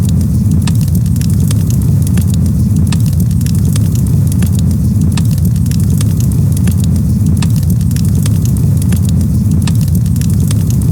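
Campfire crackling: irregular, frequent sharp pops and snaps over a steady low rumble.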